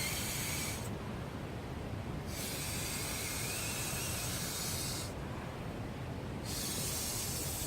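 Mouth blowing air into an inflatable pillow: three long breathy hisses with short pauses between, as the pillow fills. Behind it runs the steady rush of a mountain stream.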